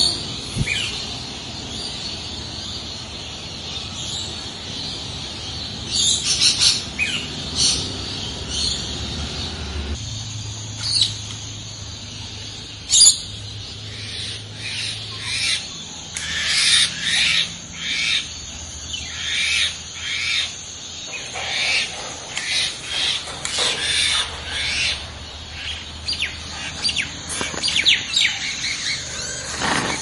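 Birds chirping and calling: short, high chirps and squawks, scattered at first, then coming in dense, quick runs from about halfway through, over a faint low hum.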